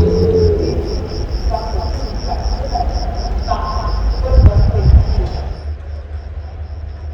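Crickets chirping steadily, about five pulses a second, over the low rumble of an arriving passenger train. The rumble swells to its loudest about four and a half seconds in, then eases.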